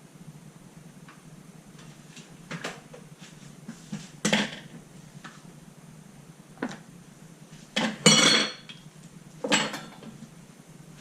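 Dishes and kitchen utensils being handled: a handful of separate knocks and clinks, with a longer clattering rattle about eight seconds in.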